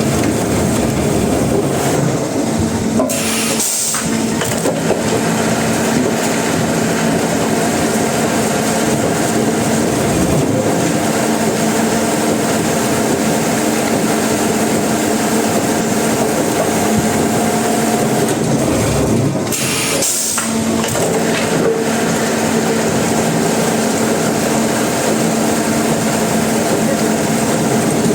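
Sawmill machinery running steadily, a continuous mechanical drone with a held hum under it. It dips briefly twice, about four seconds in and again about twenty seconds in.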